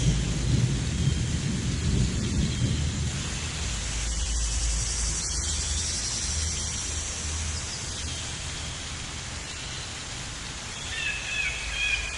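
Thunder rumbling low and fading away over the first few seconds, over a steady hiss of rain. A few faint short chirps come through the rain, with a brief wavering call near the end.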